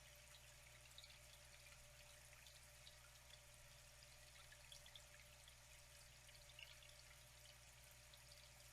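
Faint flowing water trickling steadily, with small scattered drips and splashes.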